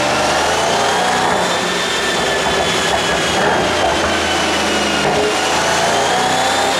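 Mercedes-AMG E63 4Matic's tuned twin-turbo V8 running under steady throttle, a continuous loud drone whose pitch drifts slowly up and down.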